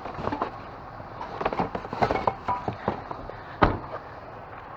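Objects being handled and shifted while rummaging through a dumpster: a string of irregular clicks, knocks and clatter, with one louder sharp knock about three and a half seconds in.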